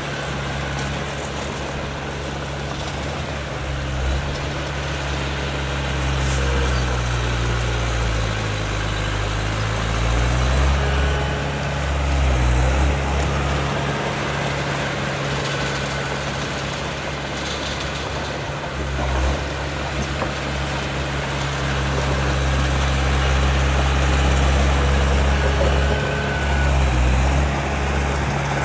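Heavy diesel engine of earthmoving machinery running steadily. Its pitch drops and comes back up about eight to ten seconds in.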